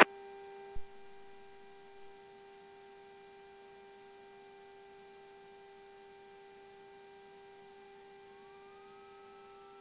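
Faint steady electrical hum in an aircraft's intercom and radio audio feed, made of several thin whining tones. One tone wavers, and another glides slowly upward near the end. A single short click comes about a second in.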